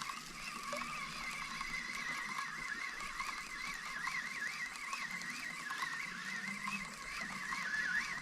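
Spinning reel being cranked to retrieve a lure: a steady whine that wavers up and down in pitch about three times a second, in step with the turns of the handle.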